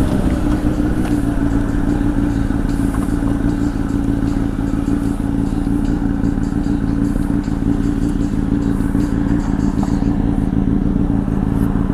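Honda CBR1000 sport bike's inline-four engine with a Two Brothers exhaust running at a steady cruising speed, its pitch holding nearly level.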